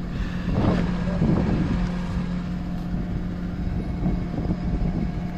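A heavy truck's engine running at a steady idle, one even low tone throughout.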